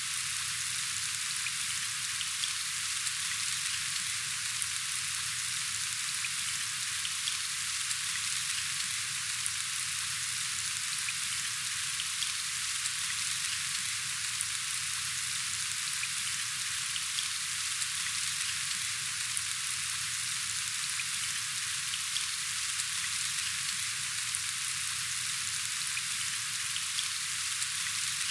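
Steady rain falling: a dense, even hiss with fine patter of individual drops that keeps on unchanged.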